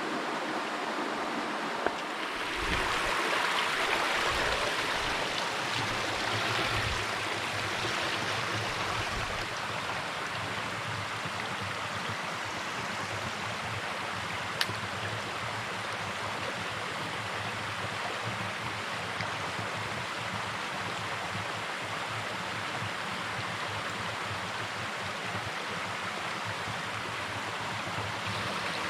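Mountain stream water rushing and splashing over rocks, steady, swelling louder for several seconds near the start. A single short click about halfway through.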